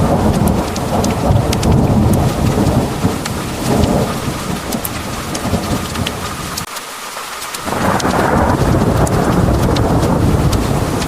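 Heavy rain pouring with a deep rolling thunder rumble underneath and sharp drops ticking on a hard surface. The thunder rumble falls away for about a second about two-thirds of the way through, then swells back in.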